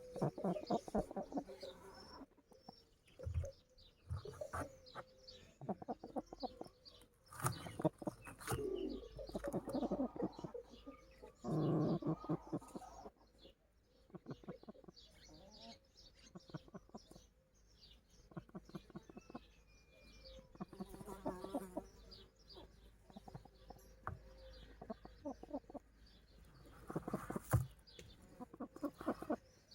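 Domestic chickens clucking in a run of short calls, with several louder bouts of clucking.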